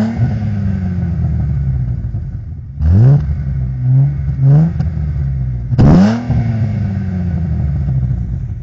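Audi 80 2.8-litre V6 with a 60 mm BN-Pipes exhaust from the catalytic converter back, idling and blipped on the throttle. There is a sharp rev about three seconds in, two short smaller blips around four seconds, and a bigger rev near six seconds that drops slowly back to idle.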